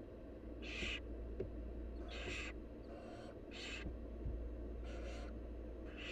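Barn owl nestlings giving their raspy hissing begging calls, the 'snoring' hiss of young barn owls asking for food. About five or six short hisses come roughly a second apart, with a few soft knocks of movement in the nest box and a steady low hum underneath.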